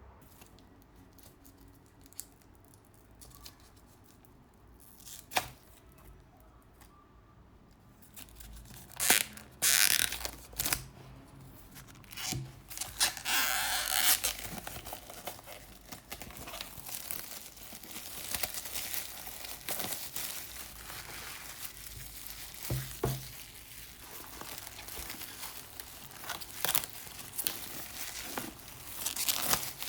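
Material being torn and crumpled by hand: a few faint clicks at first, then from about eight seconds in, loud uneven tearing and rustling that comes and goes until the end.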